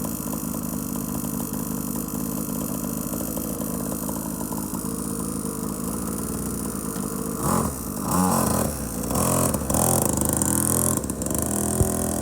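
Small 50cc kids' motorcycle engine running steadily, then revving up and down several times in the last four or five seconds.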